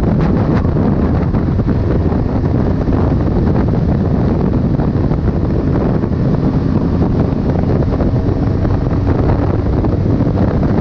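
Heavy wind buffeting the microphone as a steady, loud low rumble, with no breaks.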